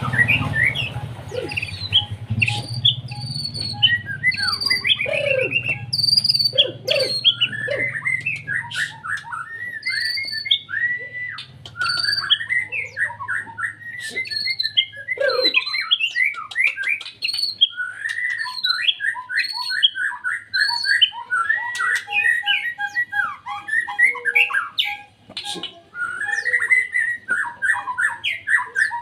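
White-rumped shama (murai batu) singing non-stop in loud, rapid-fire phrases of whistles, quick glides and trills, the 'nembak' style of song.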